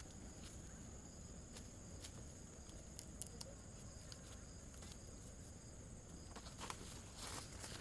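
Faint steady high-pitched insect chirring, with scattered light clicks and a brief rustle near the end.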